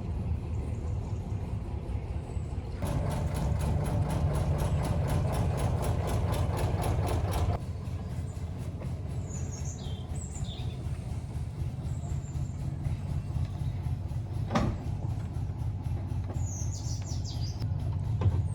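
Narrow-gauge railway train running, with a steady low rumble and, for about five seconds, a fast even beat of about six strokes a second. Birds chirp near the end, and there is one sharp click.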